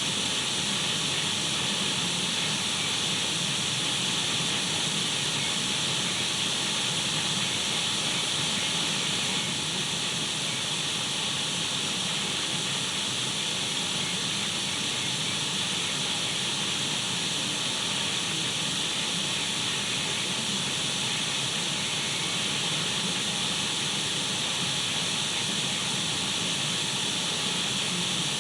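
Radio static: the steady, even hiss of an untuned radio, brightest in the upper range with a faint low hum beneath.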